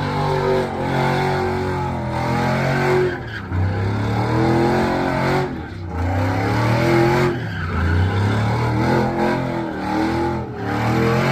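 Engine of a drifting car revving hard under the throttle, its pitch rising and falling several times with short dips, over a steady hiss of tyre noise.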